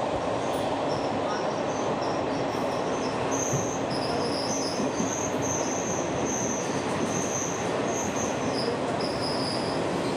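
Express passenger train running on the rails: a steady rumble, with short high-pitched wheel squeals coming and going through it.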